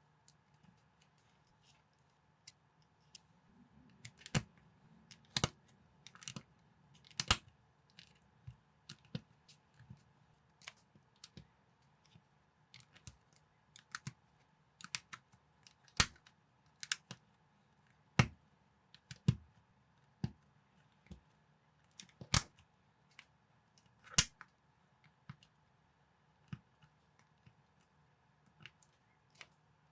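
Plastic building bricks being handled and pressed together: irregular sharp clicks and taps, a few much louder snaps among many light ones.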